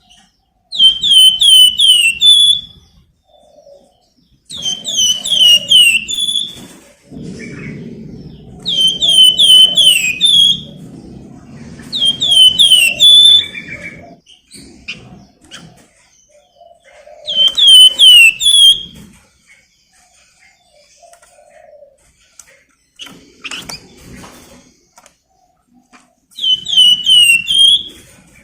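A flamboyan songbird singing in repeated short phrases, each a quick run of high, downward-sweeping chirps lasting a second or two, about six phrases in all. A low rumble sits under the song for several seconds in the first half.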